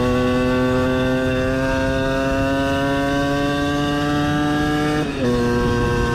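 60 cc two-stroke moped engine under load, its pitch slowly climbing as it accelerates. About five seconds in the revs dip briefly and fall to a lower pitch at an upshift, then start climbing again.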